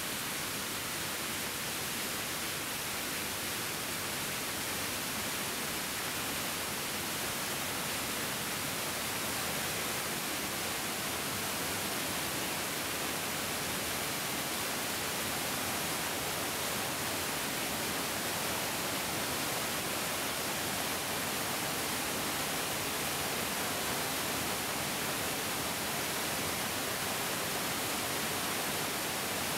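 Mountain stream rushing steadily over rocks: an even, unbroken hiss of flowing water.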